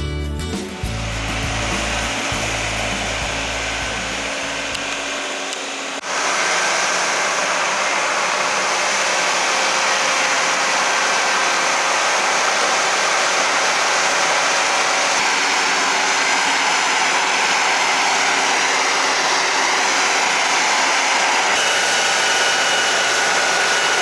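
Background music ends within the first few seconds, then a loud, steady rushing noise from a machine or power tool runs on without a break, with a faint steady whine in it.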